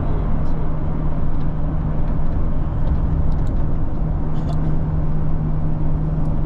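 Steady road noise inside a moving car: a low rumble of tyres and engine with a steady low hum.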